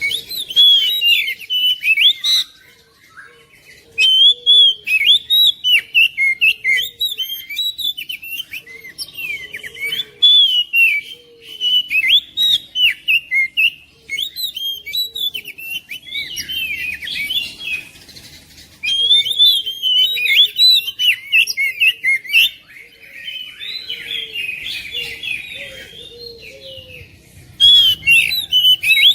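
Oriental magpie-robin (kacer) singing a fast, varied song of whistled notes, slurs and chatter, in long runs broken by short pauses. The phrases are softer and scratchier for a few seconds after the middle.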